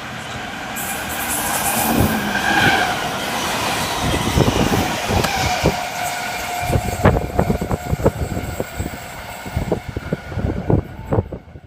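A V set electric double-deck train (V27, four cars) passing close by at speed. The rumble builds, then the wheels clatter over the rail joints in quick, uneven knocks, with a steady whine through the middle of the pass.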